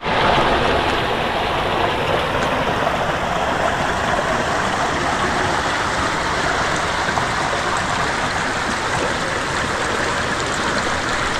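A steady rushing noise with no engine note or other pitched sound, like running water.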